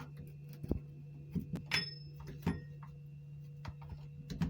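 Irregular knocks, clicks and a brief scrape from handling PVC drain pipe and fittings under a kitchen sink, over a steady low hum.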